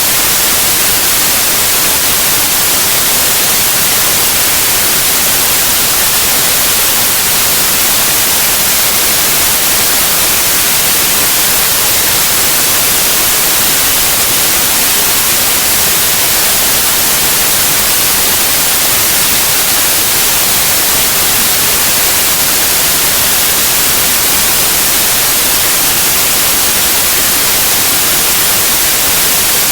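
Steady white noise: a loud, even hiss across all pitches, brightest in the highs, with no change.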